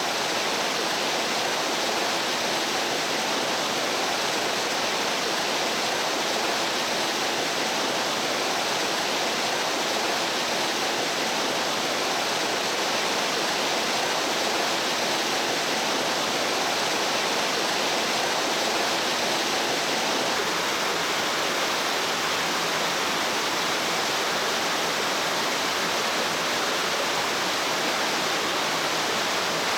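Mountain stream water rushing over rocks, a steady, even rush with no change.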